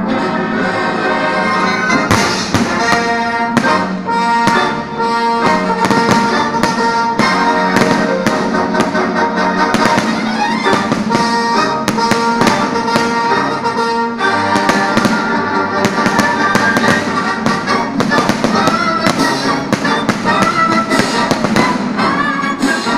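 Fireworks display: many shells bursting with bangs and crackles over loud instrumental music, the bangs coming thick and fast from about two seconds in.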